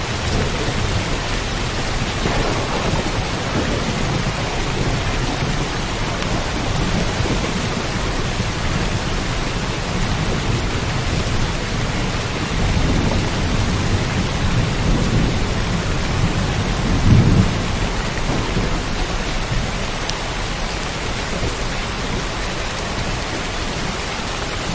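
Steady rain falling, with low rolls of thunder swelling several times; the loudest rumble comes about two-thirds of the way through.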